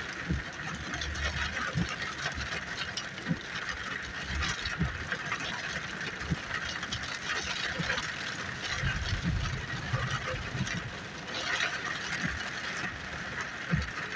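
Heavy rain falling steadily, a dense patter of many small drop impacts. A low rumble swells about nine seconds in.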